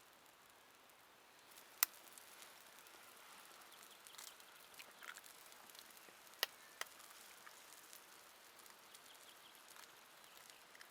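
Faint, steady patter of rain with a few sharp pops, one about two seconds in and two close together past the middle.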